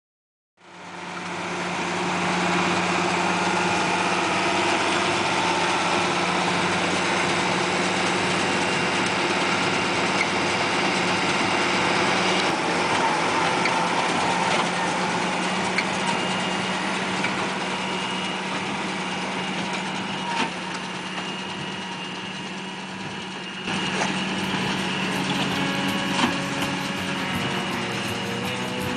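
The big diesel engine of an International Harvester 3388 2+2 tractor running steadily under load while pulling a square baler through hay. The sound fades in at the start and gets louder about 24 seconds in.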